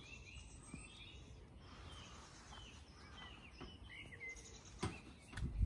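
Small birds chirping and calling, a scatter of short high chirps and quick whistled notes, over a quiet outdoor background. A click comes near the end, then a low thump.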